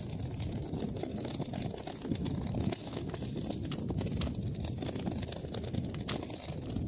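Wood fire crackling steadily in a fireplace, with many small pops over a low rumble and one sharp, louder pop about six seconds in.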